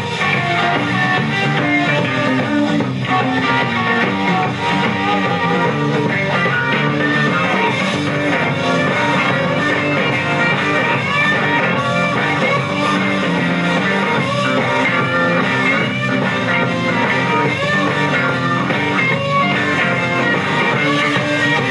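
Live rock band playing an instrumental break: an electric guitar lead with bending notes over bass and drums.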